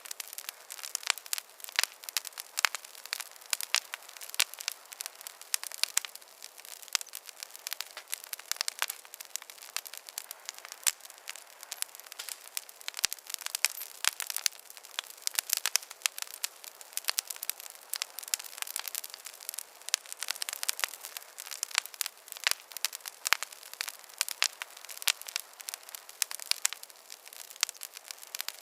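Wood campfire burning steadily, with dense, irregular crackles and sharp pops over a soft hiss.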